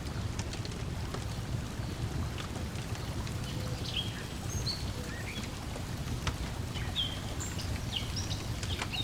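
Layered lakeside ambience: a steady low wash of water lapping at the shore, sharp crackles and pops of a wood fire, and short bird chirps scattered through the second half.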